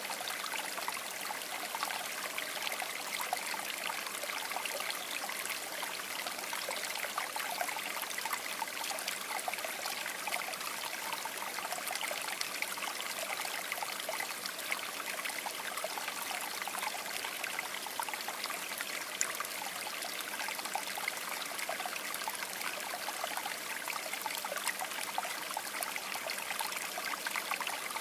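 River water babbling in a steady, unbroken flow.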